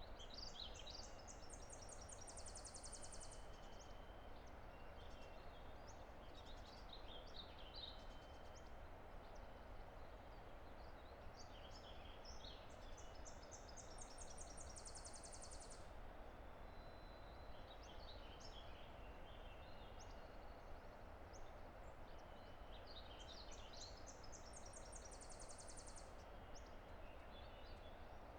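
A distant river's steady rush, with a songbird singing three times, each song a run of high notes ending in a fast trill, about every twelve seconds.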